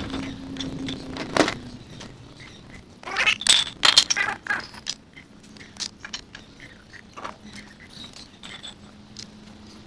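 Light metallic clinks, clicks and scrapes from small metal items being handled, most of them about three to four seconds in. A low steady hum stops within the first two seconds.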